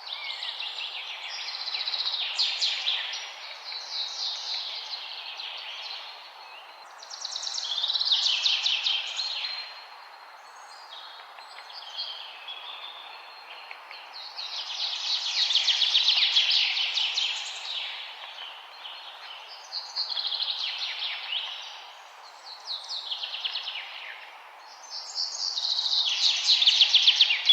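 Forest songbird singing rapid trilled phrases, each a second or two long, repeated every few seconds. A steady low hiss runs underneath.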